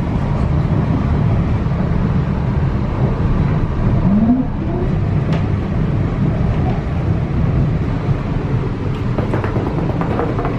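Steady low rumble of a moving passenger train heard from inside the carriage, with a brief rising whine about four seconds in.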